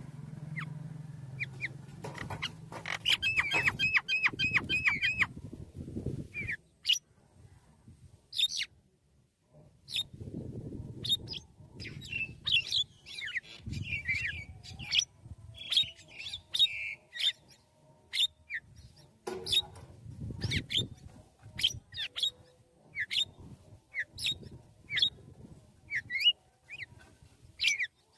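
Birds calling. A few seconds in comes a quick run of repeated high notes, followed by many short, high chirps spaced irregularly, over a low rumble that comes and goes.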